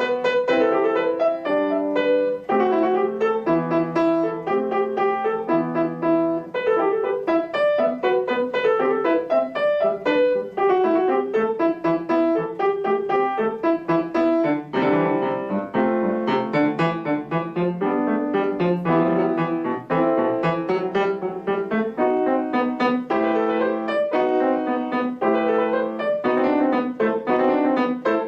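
Solo piano played by a young child, a lively piece of many short, detached notes at a steady loud level throughout.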